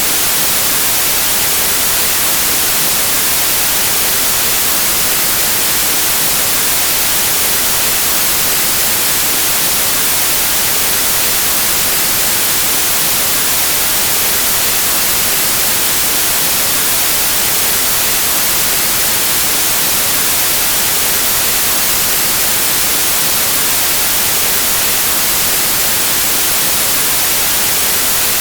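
Steady white noise: an even, unchanging static hiss, strongest in the high frequencies.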